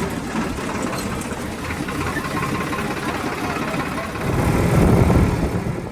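Tractor diesel engine running steadily, growing louder for about a second near the end.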